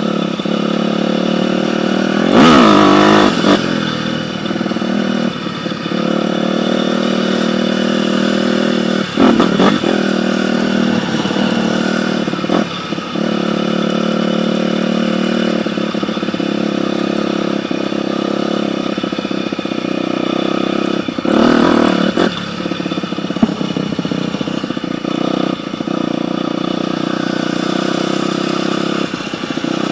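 Dirt bike engine running steadily, revved hard about two and a half seconds in and again about two-thirds of the way through, with a shorter blip of throttle around nine seconds.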